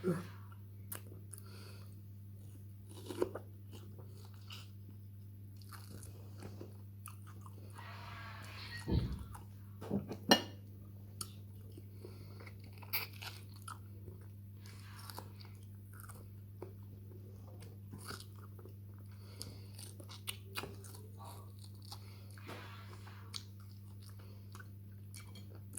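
Close mouth sounds of someone biting and chewing firm, sour Indian mango: scattered crunchy bites and wet smacks, the loudest a little past a third of the way through.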